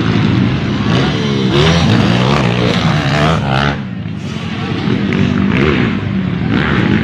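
Small single-cylinder dirt bike engines racing, revving up and falling back again and again as the riders work the throttle.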